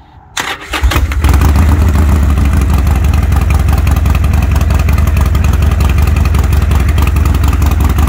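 Harley-Davidson Roadster XL1200CX's 1200 cc air-cooled V-twin being started: a brief crank on the starter about half a second in, then the engine catches and settles into a loud, steady idle.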